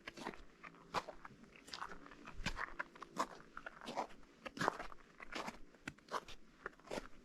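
Footsteps crunching on partly melted, granular spring snow, at a steady walking pace of about one step every three quarters of a second.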